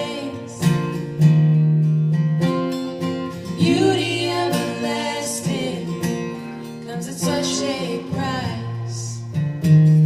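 Acoustic guitar strummed in a song, with singing at times.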